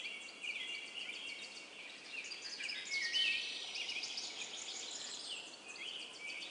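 Several small birds chirping and trilling at once, a steady background chorus of short, high calls.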